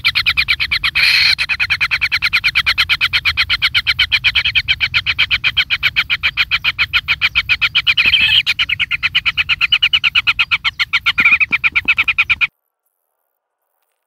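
Kingfisher nestlings calling in a fast, even run of short pulsed notes, about seven a second, which cut off abruptly near the end.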